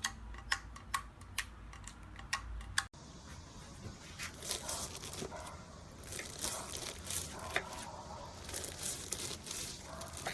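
Slime being pressed and squeezed by hand. First comes a handful of sharp, separate clicky pops. Then, after a cut, continuous crackling and crunching.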